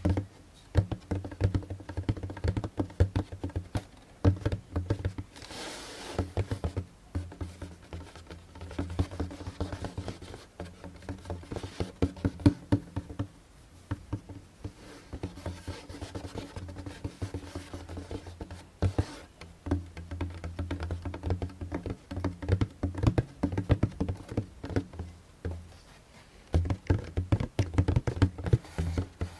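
Fingertips tapping quickly on a djembe's skin head, the drum's low tone sounding under the taps, in runs with a few short pauses.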